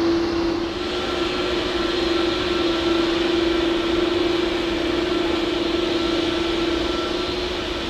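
Jet airliner engines running steadily, a hiss that rises about a second in, over a constant low hum.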